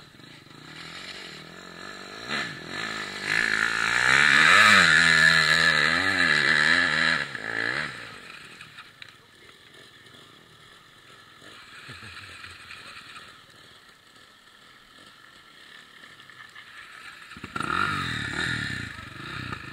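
Enduro dirt bike engine revving hard, its pitch rising and falling over and over from about three seconds in for about five seconds. Engine sound is fainter for a while, then revving picks up loudly again near the end.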